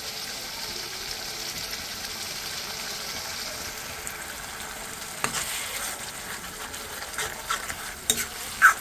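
Tomato-and-spice masala sizzling in oil in an iron kadhai, at the stage where the oil begins to separate from the spices. From about five seconds in, a steel spoon stirs and scrapes the pan with scattered clicks, and one sharp metallic clink sounds near the end.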